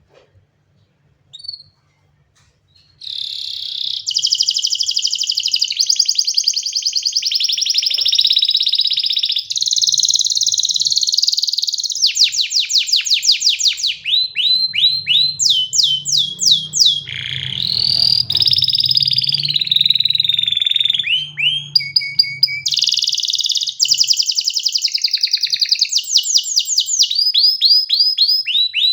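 Domestic canary singing. After a near-silent start with one short chirp, the song runs on from about three seconds in: fast high trills and runs of repeated downward-sliding whistled notes, with a lower, rolling phrase in the middle.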